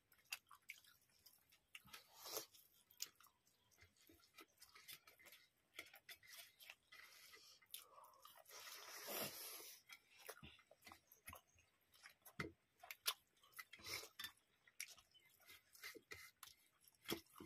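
Faint eating sounds: chewing of rice and curry eaten by hand, with many small clicks and the squish of fingers mixing rice on steel plates.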